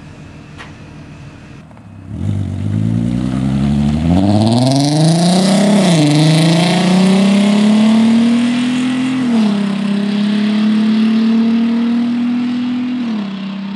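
Volkswagen Mk5 R32's 3.2-litre VR6 running through a prototype exhaust. About two seconds in it goes from a low rumble to hard acceleration, the note rising steadily in pitch. There is a quick upshift about six seconds in, then another drop in revs about nine and a half seconds in to a steady note.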